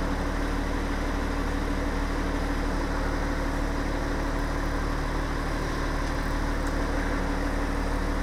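School bus diesel engine running steadily, heard from inside the bus, an even low drone with a steady hum and no change in speed.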